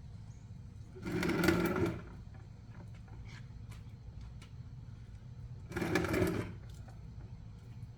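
Ryobi 2000 psi pressure washer running in two short bursts, each about a second long and a few seconds apart, with the pump and spray hissing over a steady low hum.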